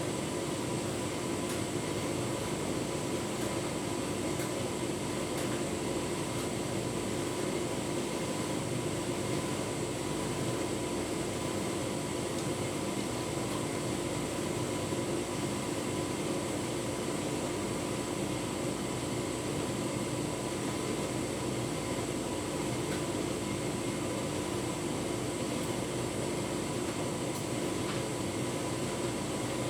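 Tumble dryer running with a full load of bedding: a steady whirring of the drum and fan, with a constant hum.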